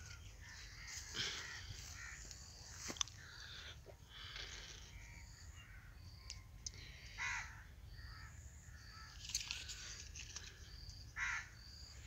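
Birds calling: four short harsh calls spread through, over a faint, regularly repeated high chirping.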